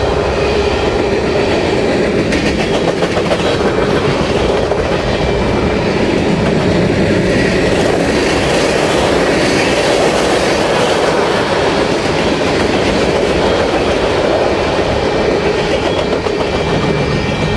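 Freight cars (covered hoppers, centerbeam flatcars and tank cars) rolling steadily past at speed: continuous steel-wheel-on-rail rumble with clicking and clacking of the wheels over the rail joints, easing slightly near the end.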